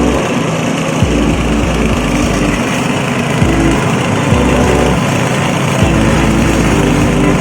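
Multifunction livestock-feed chopper running steadily with its motor, with a few short sharp knocks.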